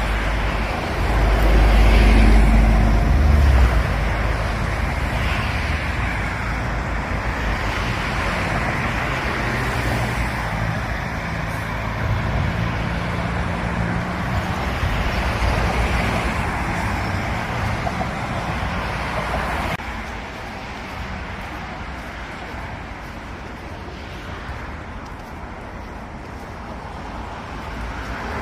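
Road traffic: cars and heavier vehicles passing steadily, with a deep rumble of a big vehicle a couple of seconds in. The noise drops suddenly to a quieter traffic hum about two-thirds of the way through.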